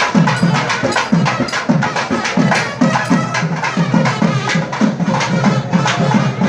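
South Indian temple music: a thavil drum beating a steady pattern of about three strokes a second, with sharp cracking strokes, under a nadaswaram reed pipe.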